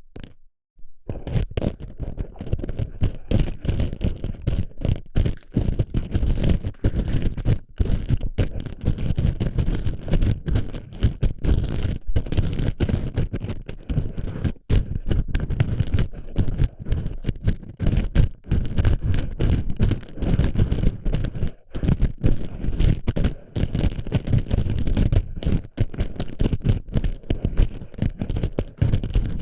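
Plastic BB pellets rubbed and packed against a binaural ear microphone: a dense, continuous scraping rattle of many tiny clicks, loud and close, starting about a second in.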